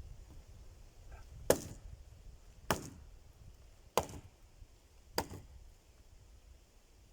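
An axe chopping wood: four sharp strikes, about one every 1.2 seconds, the first the loudest.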